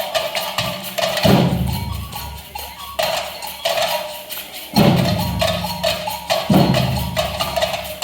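Samba band percussion playing a fast, dense beat, with wood-block-like clicks and tambourine jingles over deep low notes that come in every couple of seconds.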